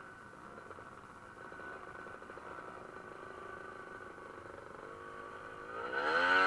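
Dirt bike engine running, growing louder with its pitch climbing near the end as it revs up close.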